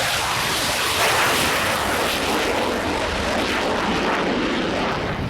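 Spanish Air Force Eurofighter Typhoon's twin jet engines at full power on its takeoff roll, a loud, steady rush of jet noise. The sound cuts off suddenly at the very end.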